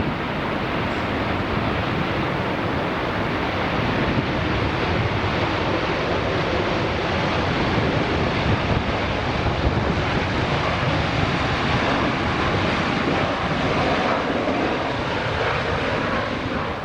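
Airbus A380 jet engines during landing, a steady rushing noise, mixed with wind on the microphone.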